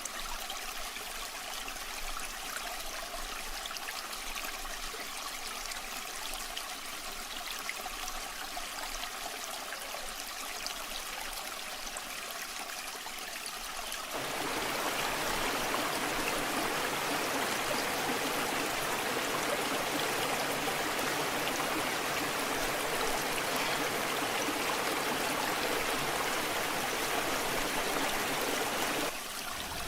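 Waterfall water rushing steadily. About halfway through, the sound changes suddenly to a louder, fuller rush, and it drops back briefly near the end.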